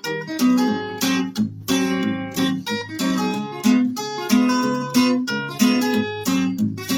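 Acoustic guitar strummed in a steady rhythm: an instrumental break of a folk song.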